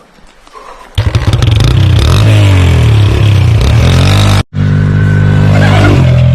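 Small four-stroke single-cylinder pit bike engine running hard, its pitch rising and falling with the throttle. It comes in abruptly about a second in and drops out for an instant past the middle before carrying on.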